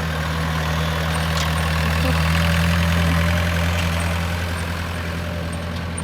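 An engine idling steadily with a deep, even hum, swelling slightly in loudness around the middle.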